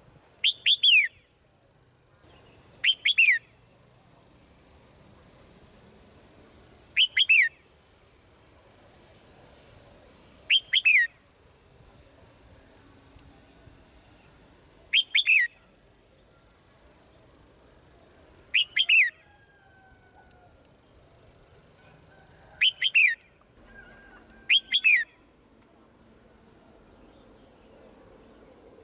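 Swallow calls: short bouts of two or three quick chirps that slide downward in pitch, repeated about every three to four seconds, eight bouts in all. A steady high-pitched tone runs underneath.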